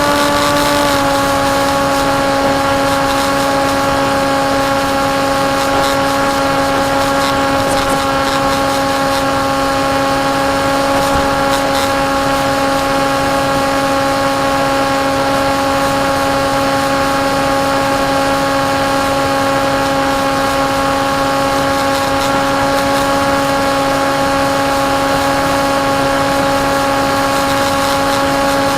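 Electric motor and propeller of a foam-board FPV flying wing whining at a steady cruise throttle, under a haze of rushing air. The pitch dips slightly about a second in, then holds steady.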